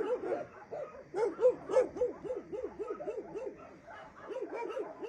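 An old dog whining in a string of short rising-and-falling cries, about three a second.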